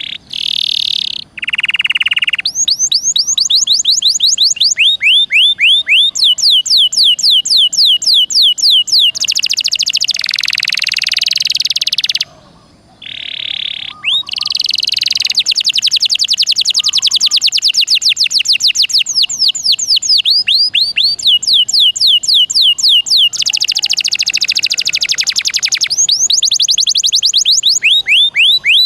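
Domestic canary singing a long, loud song: rapid trills of repeated high downward-sweeping notes, broken by harsher buzzy passages, with a short pause about twelve seconds in before the song resumes.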